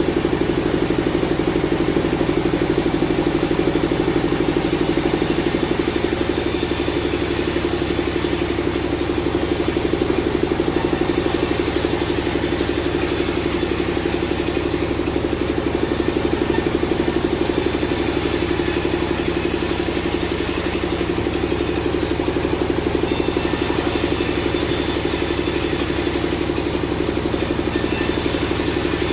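Sawmill engine running steadily, with a fast, even pulse. A high hiss comes and goes every few seconds over it.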